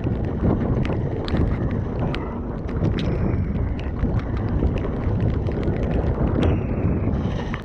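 Strong gusting wind buffeting the camera microphone while a Rocky Mountain Altitude mountain bike rolls over rough trail, with many sharp clicks and rattles from the bike.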